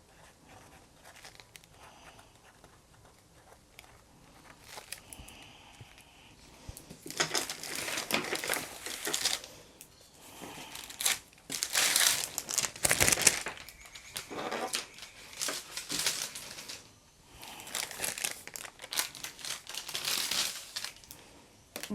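Art supplies being handled and rummaged through: irregular rustling and crinkling that starts about seven seconds in and comes in bursts.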